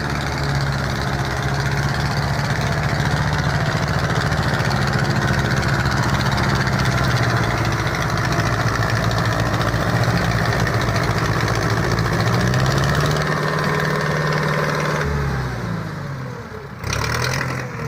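Tractor diesel engine running hard at steady high revs, as when pulling a stuck trolley, then the revs drop and ease off near the end, with a brief loud burst of sound just before it stops.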